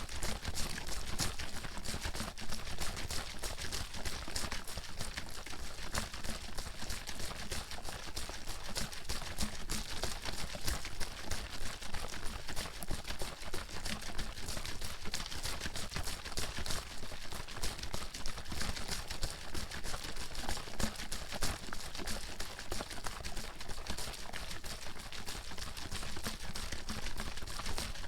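Water bottle being shaken hard and continuously, the water sloshing and splashing against the inside in a rapid, steady rattle.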